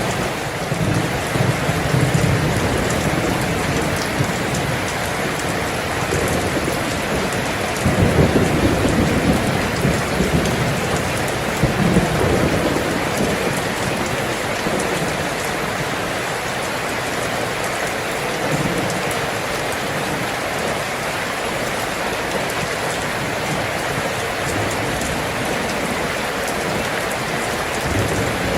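Steady rain falling, an even hiss throughout, with a few deeper low swells in the first half.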